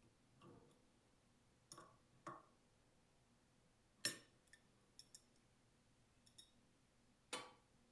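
Faint, scattered clinks and clicks of a wrench and metal pump fittings being handled, about ten short ones spread over the few seconds, the loudest about four seconds in.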